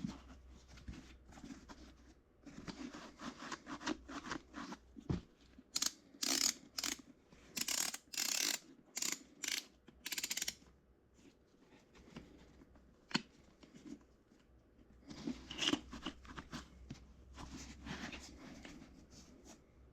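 Hands handling motorcycle riding shoes and their packaging: intermittent scratchy rubbing and rustling, with a dense run of short strokes about a third of the way in, another cluster later, and a few sharp clicks.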